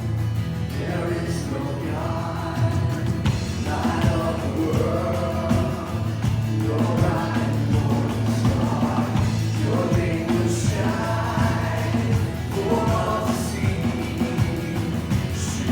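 Worship music: a group of voices singing over a full band with a steady beat.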